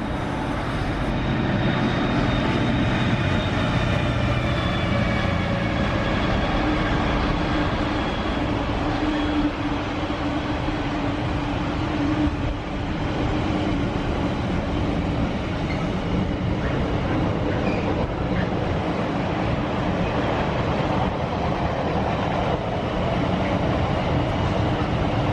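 A train running at the platform: a steady rumble of wheels and running gear, with a whine that falls slowly in pitch over the first several seconds.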